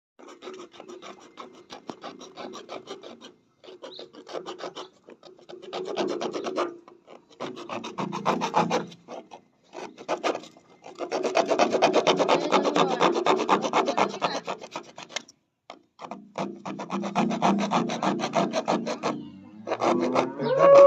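Rapid rasping or scraping strokes, like a file or scraper worked back and forth over a surface, in several runs of a few seconds each with short pauses between them.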